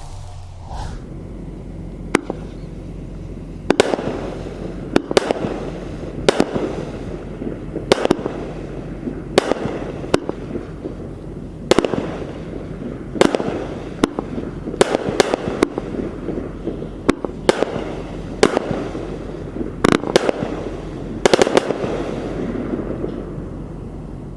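Consumer firework, Red Apple's 'Fisherman', firing a series of sharp reports about once a second, each trailing off briefly.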